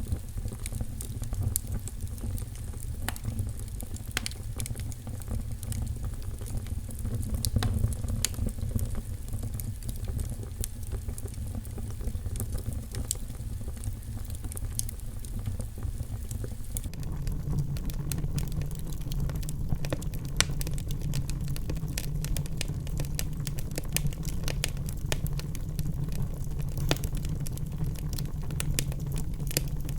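Wood fire crackling in a fireplace: scattered sharp pops and snaps over a steady low rumble of flames. A little past halfway the rumble shifts slightly higher.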